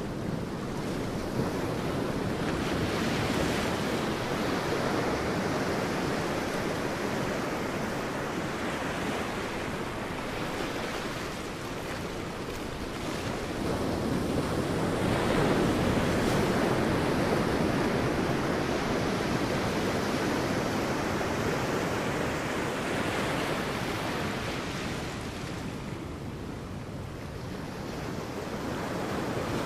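Sea waves breaking and washing on a beach, a steady surf that swells and ebbs over several seconds, with quieter lulls about twelve seconds in and near the end.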